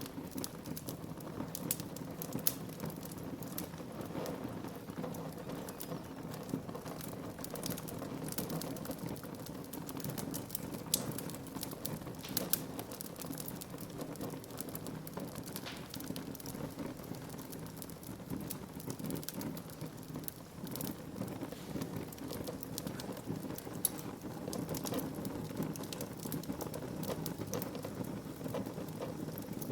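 Wood fire crackling in a fireplace: frequent irregular sharp snaps and pops over a steady low rush.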